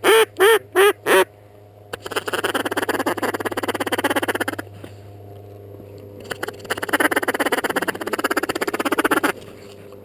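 Mallard duck call blown by a hunter: four loud quacks, then two runs of rapid feeding chatter, each a couple of seconds long. A steady low hum runs underneath.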